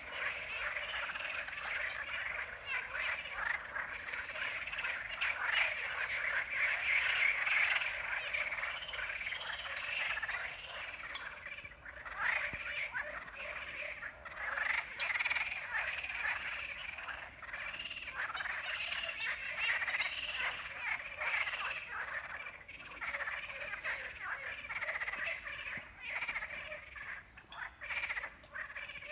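A dense chorus of many frogs croaking continuously, a thick mass of rapid pulsing calls that swells and eases in loudness.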